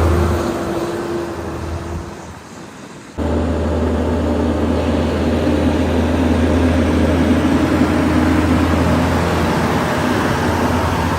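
A heavy truck engine drones and fades away over the first three seconds. After an abrupt cut, another truck engine runs steadily.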